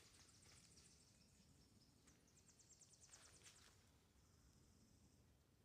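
Near silence, with a faint high bird trill of rapid repeated notes about two seconds in, then a faint high buzzy note. Soft rustles or footsteps come a few times underneath.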